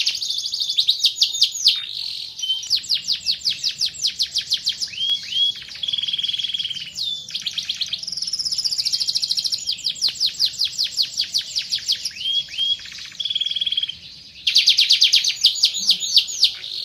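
Van Hesterling domestic canary singing: long, rapid trills of quickly repeated notes, changing from one phrase to the next, with a brief break about 14 seconds in.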